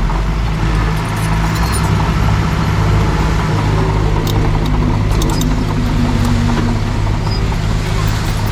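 Heavy diesel earthmoving machinery running steadily, with scattered light metallic clicks.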